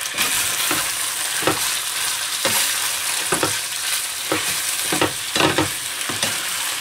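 Chicken pieces and diced onion sizzling in hot ghee in a frying pan, sweating together, with a spatula scraping against the pan every second or so as it stirs.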